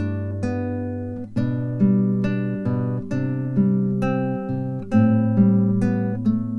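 Instrumental music on plucked guitar: notes and chords picked about every half second, each ringing and fading.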